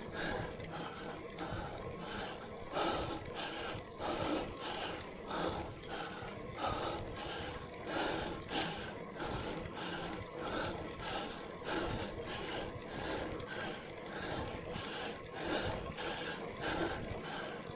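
A cyclist breathing hard and rhythmically while climbing a steep grade, about one and a half breaths a second.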